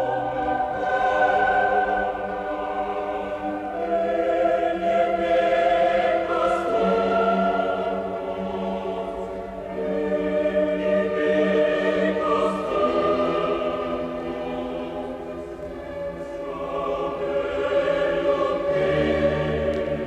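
Background choral music: a choir singing long held chords that change every few seconds.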